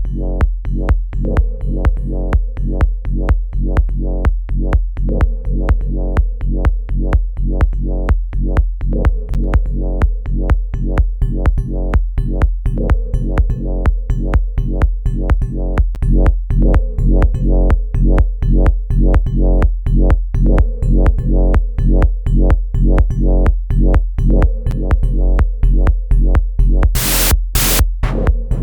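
Electronic music: a steady drum-machine beat over a deep sustained bass, with two short bursts of high noise near the end.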